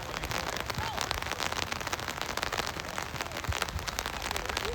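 Heavy rain falling, with drops striking close to the microphone in a dense, irregular stream of sharp taps over a steady hiss.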